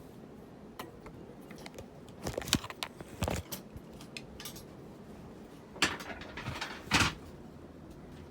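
Irregular clatter and knocks of objects being handled, with several sharp clinks: a pair about two and a half seconds in, another a second later, and the loudest near the end, over a faint steady background.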